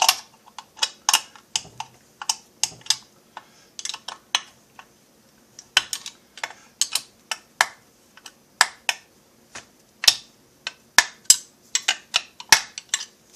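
Sharp, irregular clicks, a few a second, of a hand tool and metal parts as the screws holding the two halves of a Stihl MS660-clone chainsaw crankcase are tightened.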